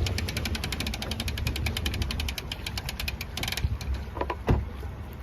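Ratchet on the trailer's hook strap clicking rapidly and evenly, about ten clicks a second, as the strap is slackened to unhook the watercraft. The clicking stops after about three and a half seconds, and a couple of knocks follow.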